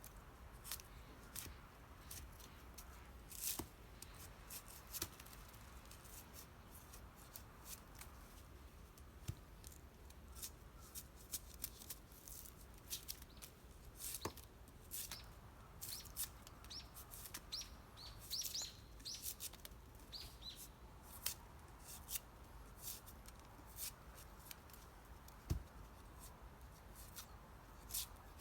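Scattered faint sharp clicks and snaps at irregular intervals, with a few short bird chirps about two-thirds of the way through.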